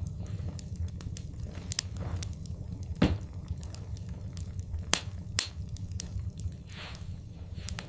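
Wood fire burning in a fireplace: a low steady rumble of flames with scattered sharp crackles and pops, the loudest pops about three and five seconds in.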